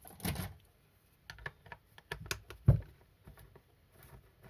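Small clicks, taps and knocks of hand tools and parts on a chainsaw's plastic and metal housing as it is dismantled, with one louder knock a little over halfway through.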